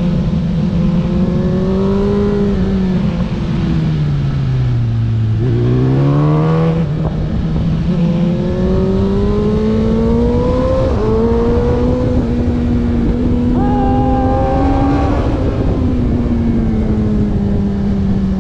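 Race car engine heard onboard at speed. Its pitch falls steadily, as when lifting and braking into a corner, about five seconds in, then rises again under acceleration with a couple of gear changes, over constant wind and road noise.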